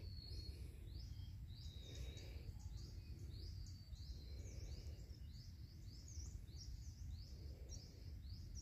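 A bird calling over and over in short, high, falling chirps, about three a second, over a low background rumble.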